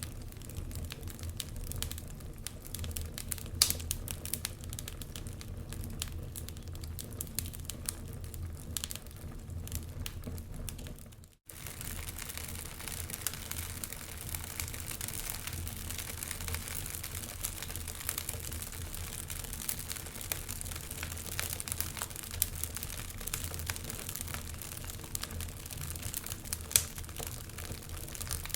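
Wood fire burning in a fireplace, crackling steadily with many small pops and a couple of sharper, louder pops, one a few seconds in and one near the end. The sound briefly cuts out about eleven seconds in, then the crackling resumes.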